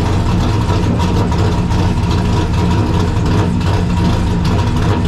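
Late model stock car engines running together at low speed, a steady deep rumble with no revving peaks.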